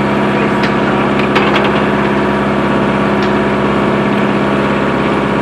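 Sawmill machinery running with a steady drone, with a few light clicks over it.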